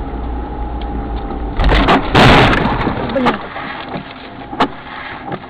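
Car crash heard from inside a vehicle: steady road rumble, then a loud collision noise about two seconds in, followed by a few sharp knocks.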